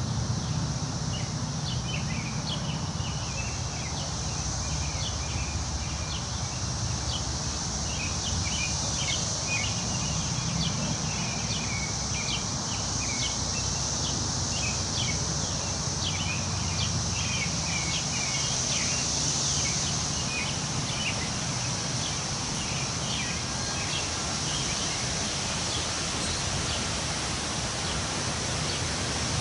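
Wind moving through forest trees, rustling the leaves steadily, with many short bird chirps scattered throughout and a steady high background drone.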